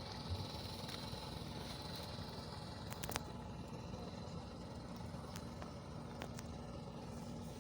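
Steady low hum of a distant engine running, over a faint outdoor noise bed, with a few soft clicks.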